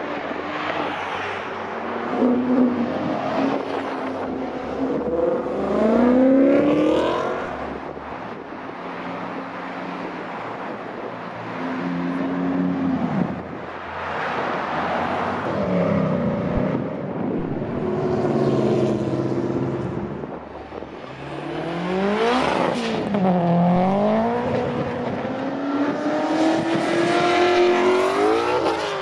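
Several cars accelerating past one after another, their engines revving hard with the pitch repeatedly climbing and dropping through the gears. The loudest run comes near the end.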